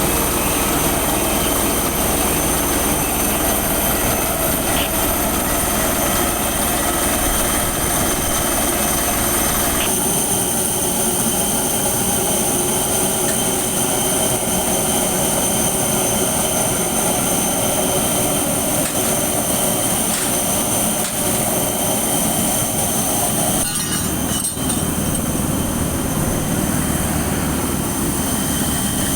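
Jet airliner engines running with a steady high whine over a broad rumble. The low rumble thins about ten seconds in.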